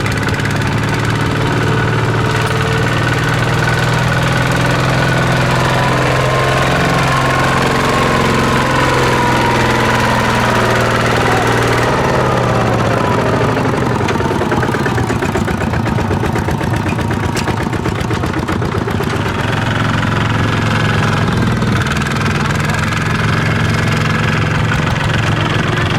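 Farm machinery engine running steadily in a muddy paddy field. Its note drops about halfway through and shifts again a few seconds later, as the machine changes load or throttle.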